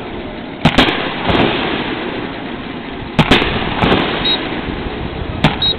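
Aerial fireworks bursting: sharp bangs in quick pairs about a second in and three seconds in, another near the end, with a continuous rumble between them.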